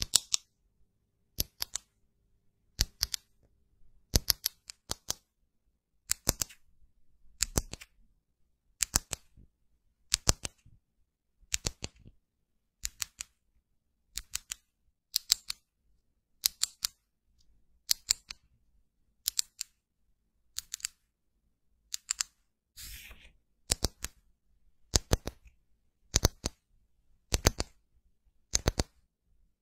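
Sharp little clicks in pairs or threes, repeating steadily about every second and a half, with one brief scraping rustle about two-thirds of the way through.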